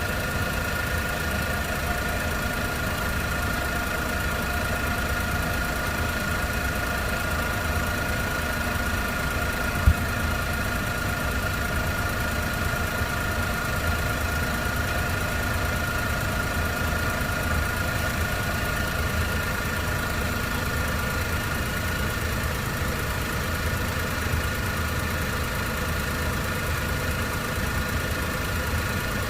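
Honda Vamos's small three-cylinder engine idling steadily with the air conditioning running while refrigerant is charged, a constant high whine over the engine note. A single sharp click about ten seconds in.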